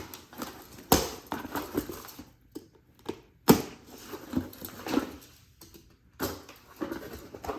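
Cardboard shipping box being opened with a box cutter and unpacked: scraping and rustling of cardboard and packing, broken by three sharp knocks, about a second in, near the middle and about six seconds in.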